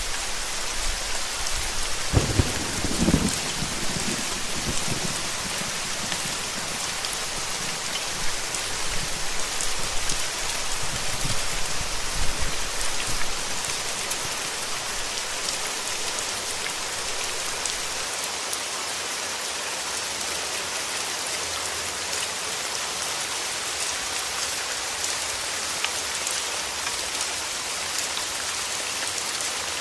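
Steady rain falling, with a low rumble of thunder about two seconds in and fainter rumbles around ten seconds in.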